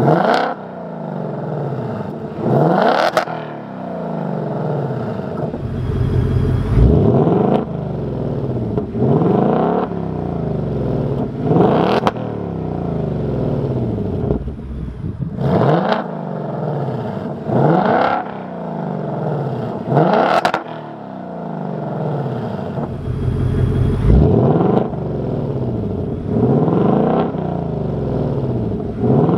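2024 Ford Mustang Dark Horse's 5.0 L Coyote V8, through a Corsa stainless double H-pipe that replaces the factory resonator, revved over and over. Each rev climbs and drops back, about ten in all, roughly every two to three seconds.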